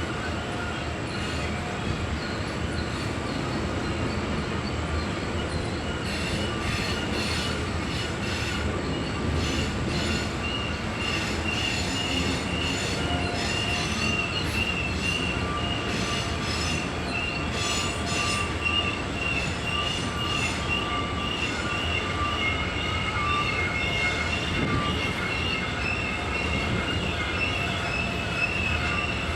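Freight train rolling around a sharp curve, its wheels squealing against the rail in several steady high tones over the rumble of the cars. About a quarter of the way in, a run of rapid clicks from the wheels and rail joints begins and lasts roughly ten seconds.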